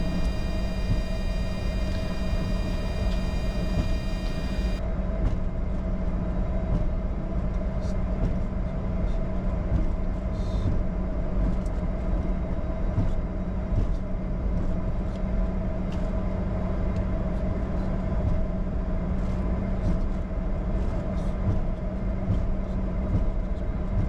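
Steady cockpit noise of a Bombardier Challenger 605 taxiing, its two GE CF34 turbofans at idle, a constant drone with a low hum. For the first five seconds a high whine of several tones sounds over it, then cuts off suddenly.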